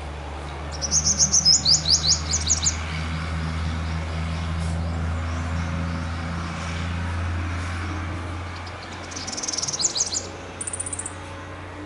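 A small bird chirping in a quick run of short, high notes for about two seconds, then again with another run and a brief high trill near the end. A steady low hum runs underneath.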